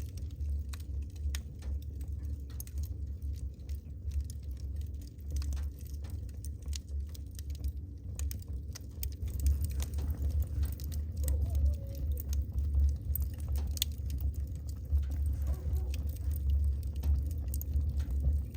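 Wood fire burning in a fireplace, crackling: many irregular sharp pops and snaps of the burning logs over a low steady rumble.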